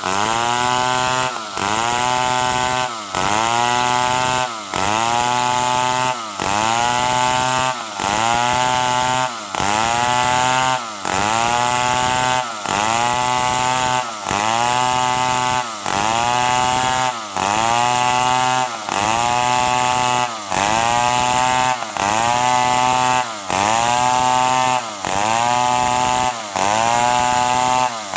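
Stihl 070 two-stroke chainsaw running at high revs while sawing timber into boards. Its pitch dips briefly and climbs back about every second and a half, in an even, repeating rhythm.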